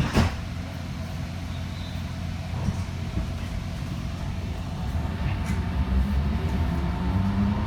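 Alstom Citadis Spirit light-rail train running with a steady low rumble, a sharp knock right at the start. From about five seconds in, its traction motors' whine rises in pitch and the sound grows louder as the train speeds up.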